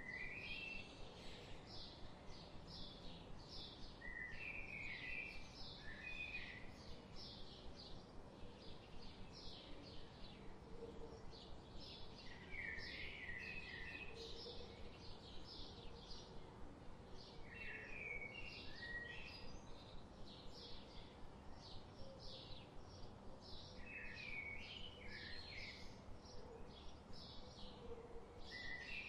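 Songbirds singing in a forest: a steady run of quick, high chirps, with a short lower warbling phrase repeated every five seconds or so.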